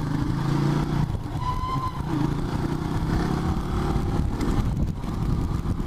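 Motorcycle engine running steadily while riding, with a rushing noise over it.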